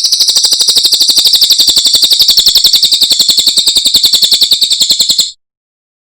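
Cililin bird singing a loud, rapid, high-pitched trill of about ten notes a second, held for about five seconds and then stopping abruptly.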